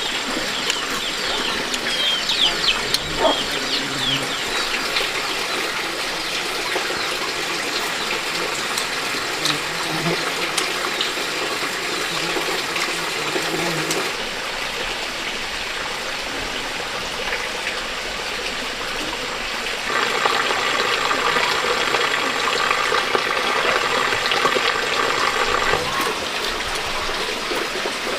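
Steady rush of running water, louder and fuller for several seconds near the end, with a few short high chirps a few seconds in.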